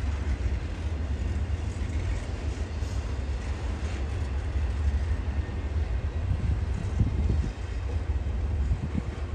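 Freight train running past with a steady low rumble.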